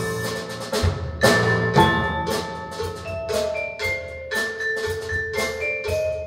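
Recorded music playing through a pair of Børresen Acoustics X6 tower speakers in a listening room: struck, ringing pitched notes over drum hits.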